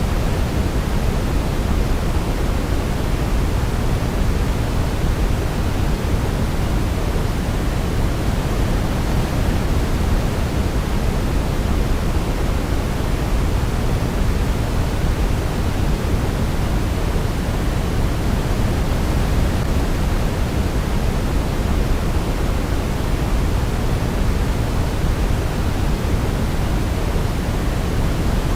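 Steady sleep noise, a constant even hiss weighted toward the low end like pink noise, with no melody and no change.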